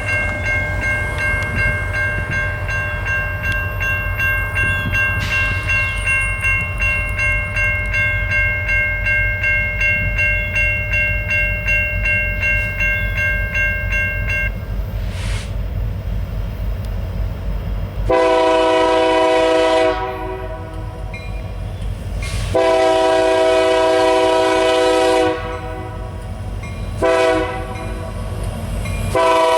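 Norfolk Southern train rumbling past with a steady high ringing tone, then about halfway through the locomotive horn sounds the grade-crossing pattern: two long blasts, a short one, and a final long blast starting near the end.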